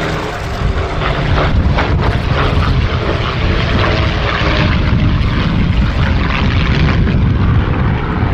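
Packard Merlin V12 engine of a P-51D Mustang fighter running at display power as the aircraft flies past, growing louder about a second in.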